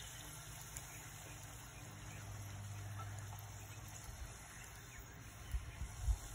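Fry bread dough frying in hot oil in a skillet, a faint steady sizzle, with a few low thumps near the end.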